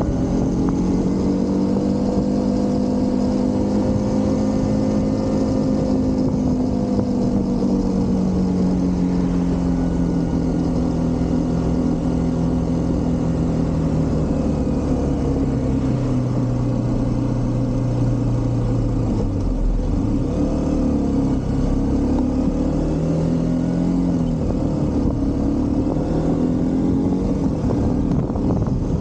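A motorcycle engine running on the move, with steady wind rush. The engine note sinks slowly, drops about two-thirds of the way through as the rider eases off, then rises again.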